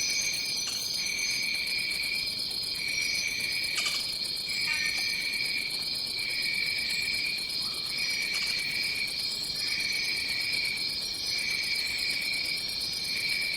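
Tropical forest insect chorus: a steady high-pitched trilling drone, with a second, lower trill beating on and off about once a second and a few faint clicks.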